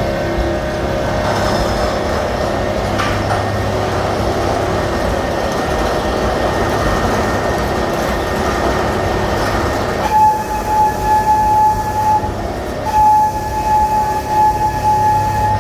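Amusement park train running along its track with a steady rumble. About ten seconds in, a high steady tone sounds twice, about two seconds each time, either the train's whistle or its wheels or brakes squealing as it nears the station.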